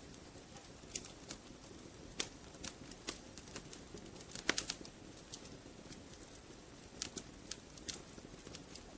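Wood fire crackling in a fireplace: irregular pops and snaps over a low steady hiss, with the sharpest pop about halfway through.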